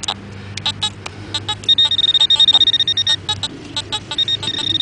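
Handheld metal-detecting pinpointer giving a high, stop-start electronic beep from about two seconds in as it is worked in the dig hole near a buried target. A few short clicks and scrapes of digging come before it.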